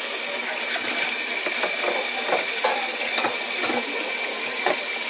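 Tap water running steadily into a sink while dishes are washed, a constant hiss with a few light knocks and clinks of the dishes.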